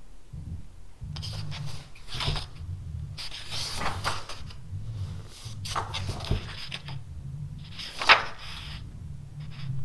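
Pen writing on paper: a series of short scratchy strokes, with low bumps against the desk and one sharper tap about eight seconds in.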